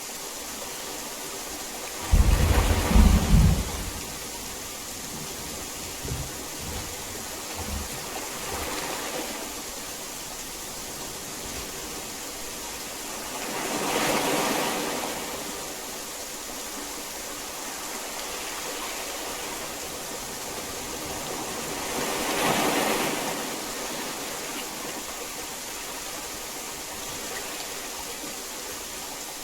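Heavy rain falling steadily. A loud, low clap of thunder comes about two seconds in, followed by a few faint low rumbles. The rain swells louder twice, around the middle and again about three quarters of the way through.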